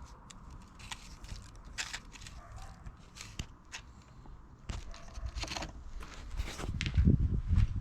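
Peugeot 205's 1.9-litre diesel engine running unevenly after a cold start from nine months' standing, a low rumble with irregular knocks and clatter that grow louder near the end.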